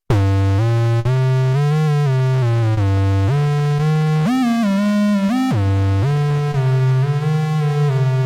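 Waldorf Pulse 2 analog monosynth playing a preset as a single-note melodic line: bright, buzzy sustained notes joined by smooth pitch glides (portamento). It starts abruptly after a moment of silence, and the notes change about once a second.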